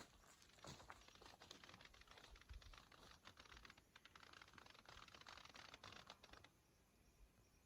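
Faint rustling and crackling: a dense run of small, quick clicks that stops about six and a half seconds in.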